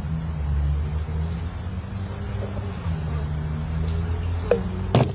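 A steady, finely pulsing high trill like chirping crickets, over a louder low steady hum.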